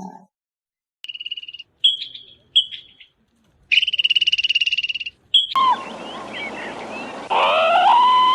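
Several bursts of a high, rapidly pulsing animal trill at one steady pitch, the longest about a second and a half. About five and a half seconds in, this gives way to a noisier recording with gliding bird calls.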